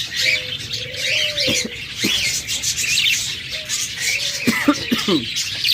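Many caged birds chirping and calling over one another. A lower, drawn-out call sounds near the start, and a few short falling calls come near the end.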